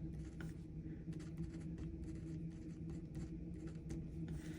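Faint scratching of a pen writing on paper in short strokes, over a steady low hum.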